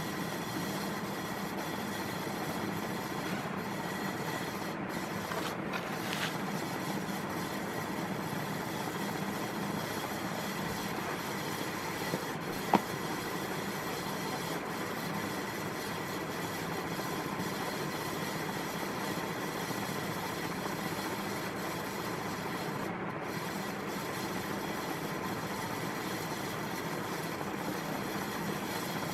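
Vintage 1980s Satellite Miser 36-inch commercial ceiling fan running steadily, a constant whir of motor and moving air with a faint hum. A single sharp click about halfway through.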